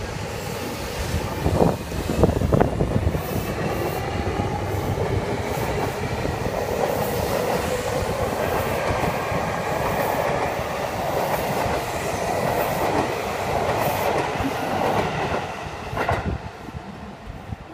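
Seibu 6000 series electric commuter train pulling out and accelerating away: wheels knocking and clacking over rail joints and points, with a faint whine from its traction motors rising in pitch. The rumble dies away near the end as the train recedes.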